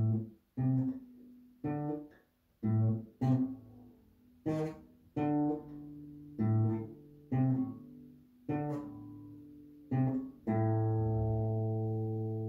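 Guitar played slowly, note by note: about a dozen plucked notes, each ringing and dying away, the last one left to ring on near the end.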